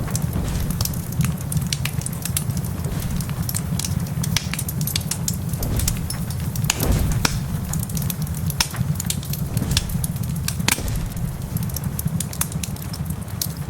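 Wood fire crackling in a fireplace, with frequent sharp pops at irregular moments over a steady low rumble.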